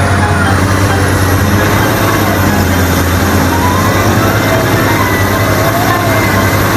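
Bulldozer engine running steadily with a low drone.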